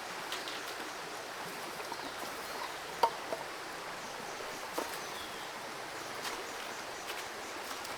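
Steady sound of a running forest creek, with a few short sharp taps about three seconds in and again near five seconds.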